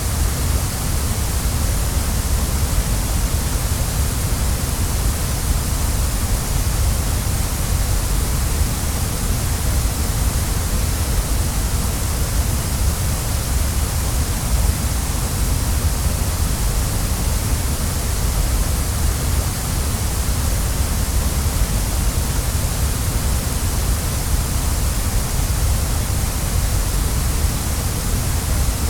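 Waterfall: a steady, unchanging rush of falling water, deep at the bottom with a hiss on top.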